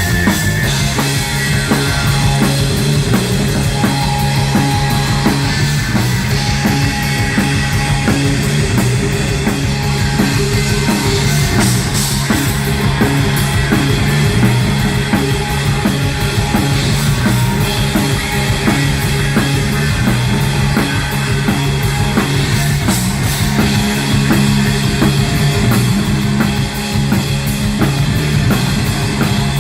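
Rock band playing live: electric guitar and bass over a steady drum-kit beat, loud and continuous, with cymbal crashes about twelve seconds in and again near twenty-three seconds.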